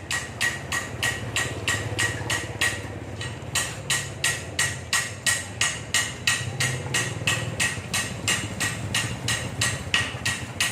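Rapid, very even tapping, about three to four sharp knocks a second with a short ring to each, over a steady low hum.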